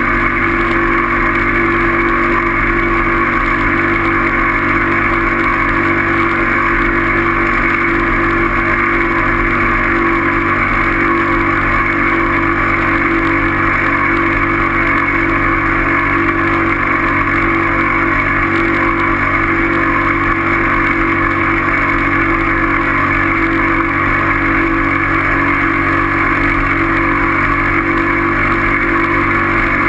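Steady drone of a vehicle travelling at constant speed, with no change in pitch or loudness.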